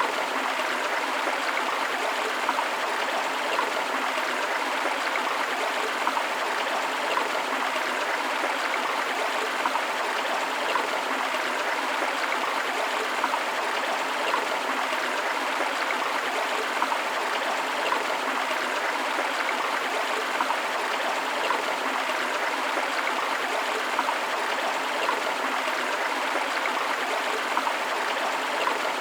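Stream of water flowing over rocks, a steady rushing with small splashes and gurgles.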